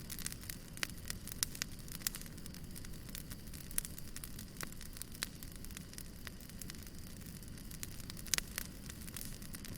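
Fire crackling: frequent sharp pops and snaps over a low, steady rumble, with one louder pop about eight seconds in.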